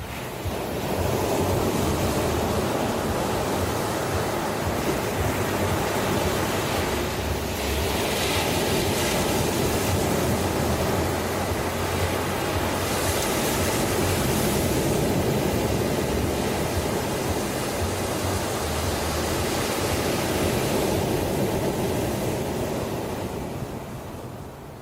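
Ocean waves breaking and washing on a shore: a long swell of surf noise that builds about a second in, surges with brighter hissing washes midway, and ebbs away near the end.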